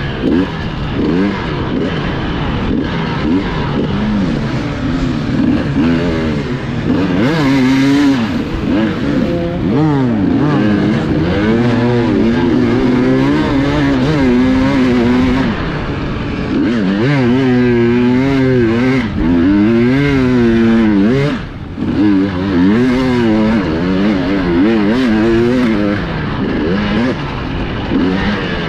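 Enduro motorcycle engine heard from on board. The revs rise and fall constantly as the rider works the throttle through rough terrain, with a brief throttle-off about three quarters of the way through.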